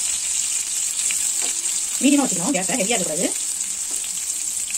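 Marinated chicken tikka pieces shallow-frying in oil in a nonstick pan: a steady, hissing sizzle, with a few light clicks as tongs turn the pieces. A person's voice is heard briefly about two seconds in, the loudest sound.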